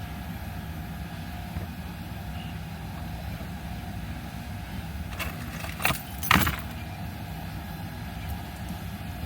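A car's engine running steadily, heard from inside the car, with two short sharp clatters about six seconds in, half a second apart.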